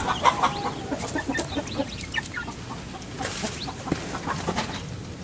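Domestic chickens clucking: many short, scattered clucks and chirps, some falling in pitch, with a few brief rustles.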